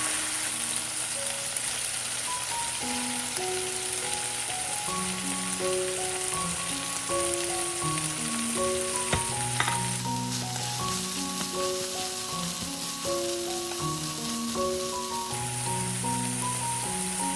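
Food frying in oil in a pan, a steady sizzle, with a couple of sharp taps about nine seconds in. A melodic background music track plays over it.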